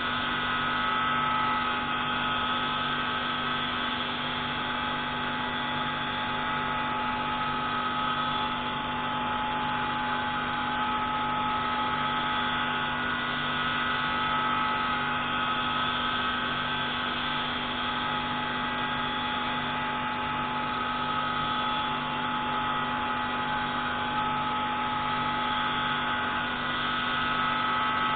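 Pneumatic grinding tool running steadily with a steady whine, grinding an intake valve of a MaK 601C marine engine, with a low throb that pulses about once a second.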